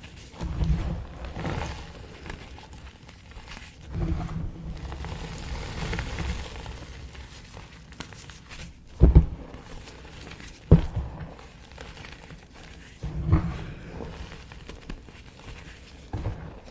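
Small blocks of gym chalk crunched and crumbled, in several separate bursts of crunching with two sharper, louder cracks a little past the middle.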